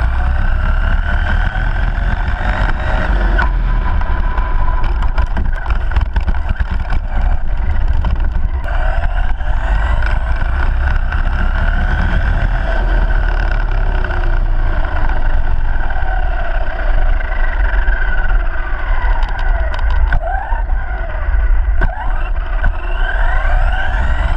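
ARRMA Granite BLX brushless RC monster truck driving, its electric motor and drivetrain whining, the pitch climbing and falling again and again as it speeds up and slows down. A steady low rumble runs underneath.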